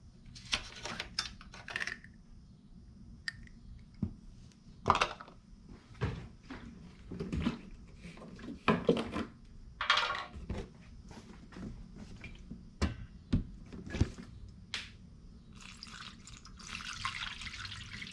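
Engine coolant being poured from a jug into a drained radiator. Scattered knocks and clicks of the jug and cap being handled, then a steady pour of liquid near the end.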